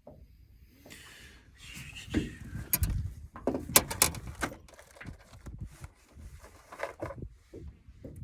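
Close handling noise: rustling, then a quick cluster of sharp clicks and knocks and a few dull thumps.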